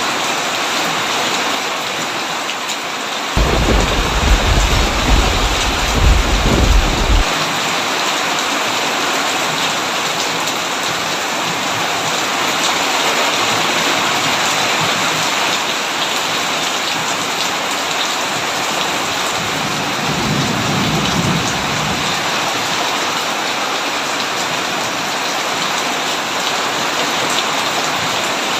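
Heavy rain on a tin roof, a steady hiss, with a loud roll of thunder rumbling for about four seconds near the start and a fainter, shorter rumble of thunder about two-thirds of the way through.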